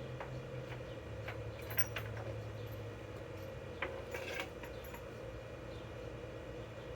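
Scattered light clicks and clinks of metal tools or drill bits being handled, over a steady low background hum.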